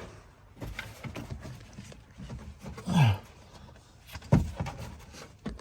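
Handling noises from work on a car's plastic wheel-arch lining and its Torx screws: scattered small clicks, a short groan-like sound falling in pitch about three seconds in, and a sharp knock just over a second later.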